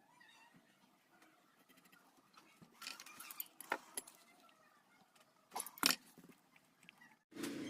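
Sparse light clicks and clinks of small metal parts or tools being handled during a mechanical seal replacement. Near the end a motor starts up with a steady hum.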